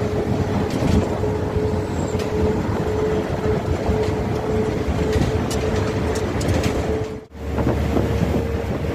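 Steady running noise of a moving vehicle: an even rumble with a steady hum over it. It cuts out briefly about seven seconds in and comes back with a heavier low rumble.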